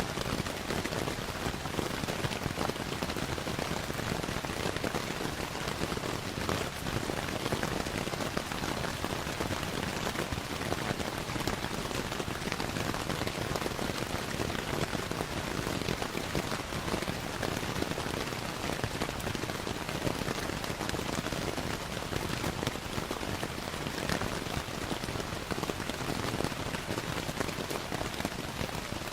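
Steady, even rainfall pattering, mixed with the crackle of a wood fire in a fireplace.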